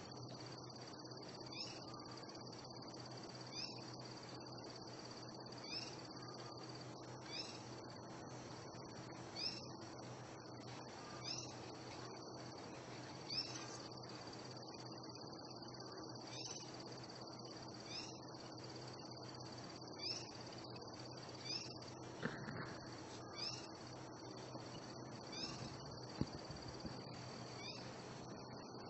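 Steady high-pitched insect drone, with a short rising chirp call repeated about every two seconds and a steady low hum underneath.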